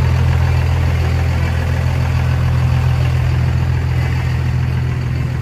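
An engine idling with a steady, constant low hum.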